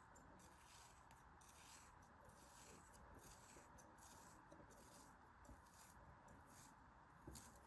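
Faint, crisp scratching strokes repeating about once or twice a second over a steady hiss, from something being cut or rubbed by hand.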